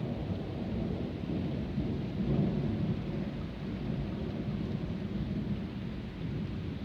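Rolling thunder rumbling low, swelling a couple of seconds in and then slowly dying away, over steady rain.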